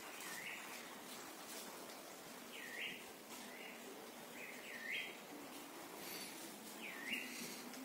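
Faint bird chirps: short, swooping notes repeated every second or two, over a faint steady background hiss.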